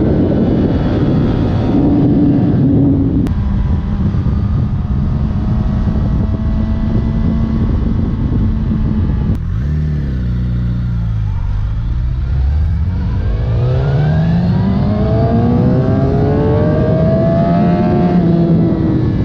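Suzuki GSX-R1000 K7's inline-four engine running through its stock factory exhaust. The engine note steps down about three seconds in and holds steady, dips low about halfway, then climbs steadily for several seconds as the bike accelerates, easing off slightly near the end.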